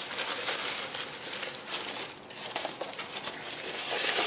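Crinkly wrapping or paper being handled, a continuous rustle of small crackles.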